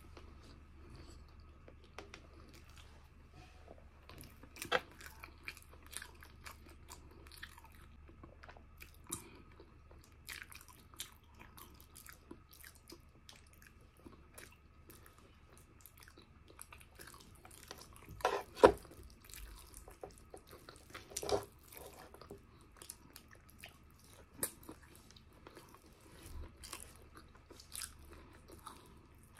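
Close-miked chewing and mouth sounds of someone eating braised pork hock (pork pata estofado) by hand, with many short clicks and a few louder bursts, the loudest about two thirds of the way in.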